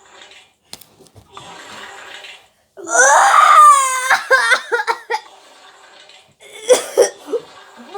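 A child's loud, high-pitched squeal with a falling pitch about three seconds in, followed by choppy bursts of giggling laughter and another short burst near the end.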